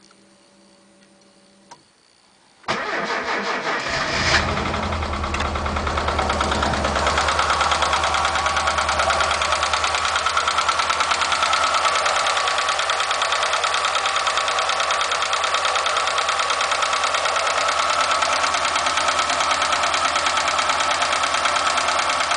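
VAZ 2107's four-cylinder engine is cranked and catches about two and a half seconds in, then idles steadily with a fast, even valve tapping. The tapping comes from excessive clearance on the first cylinder's intake valve.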